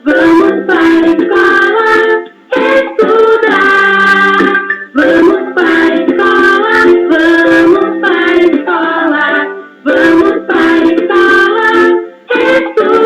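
A song with singing over a plucked-string accompaniment, sung in phrases with short breaks every two to three seconds.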